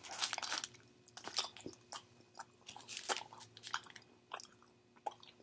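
A person chewing a sour candy, close to the microphone, with irregular mouth clicks and smacks.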